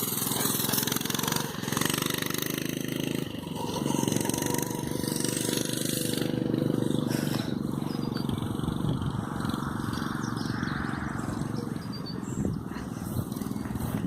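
Mini bike's small engine running, its pitch dropping briefly about three seconds in and then picking back up.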